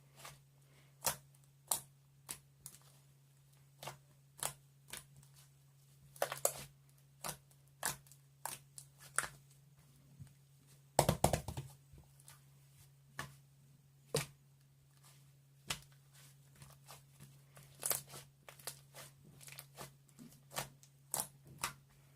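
Irregular sharp clicks and short rustling, crinkling bursts, the loudest a longer rustle about halfway through, over a steady low hum.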